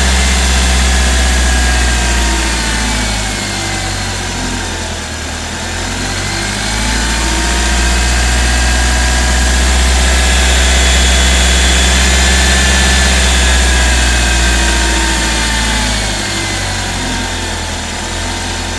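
Hyundai i20 engine running, with noise from the timing side that the mechanic identifies as the timing chain making noise. The engine sound dips slightly about four seconds in and again near the end.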